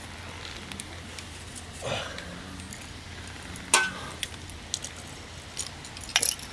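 Scattered clicks and light knocks of objects being handled, with one sharp knock a little past halfway, over a steady low hum.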